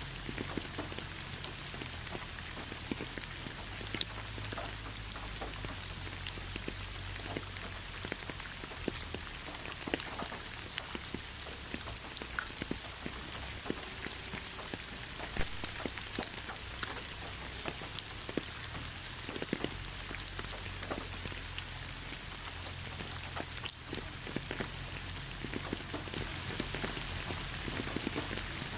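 Steady rain falling, with many individual drops ticking on surfaces over a soft continuous hiss and a low rumble underneath.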